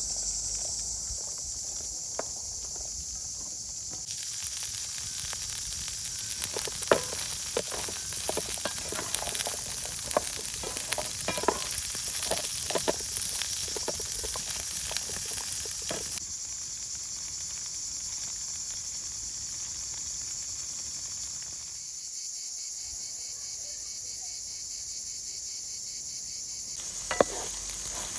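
Food sizzling in a frying pan: a steady high hiss with scattered sharp crackles through the middle stretch.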